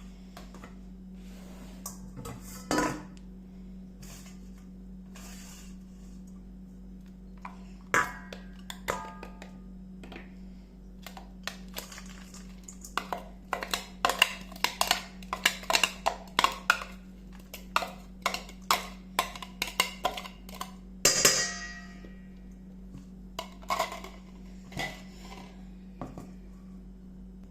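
Kitchen utensils knocking and clinking against dishes: a few scattered knocks, then a long run of quick, irregular taps. One ringing metallic clink comes about three quarters of the way through.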